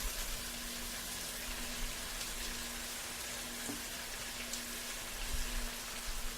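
Onions, tomatoes and garlic-ginger paste frying in oil in a pan with fresh coriander and mint leaves just added: a steady sizzling hiss with a few faint ticks, over a faint steady hum.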